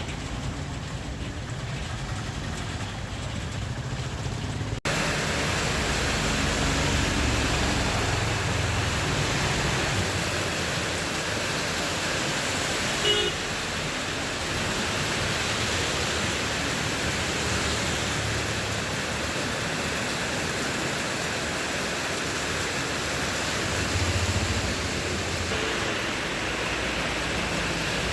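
Heavy rain pouring down as a steady, dense hiss, louder after an abrupt cut about five seconds in.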